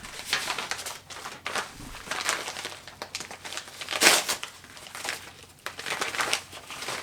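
Packaging being handled and opened: irregular crinkling and rustling, loudest about four seconds in.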